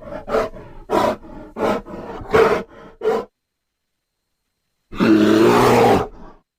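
A large wild animal grunting in a quick series of short, pitched grunts, then after a sudden dead silence one loud roar lasting about a second.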